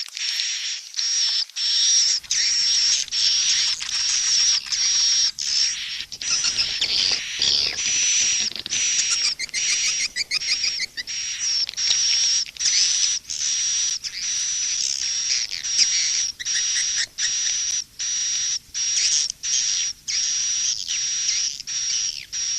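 Edible-nest swiftlet calls in a mixed lure recording of the 'SP' (calling sound) type used to draw swiftlets into a nest house: dense, rapid high chirping and twittering over a steady high whistle-like tone, cut by short, regular breaks.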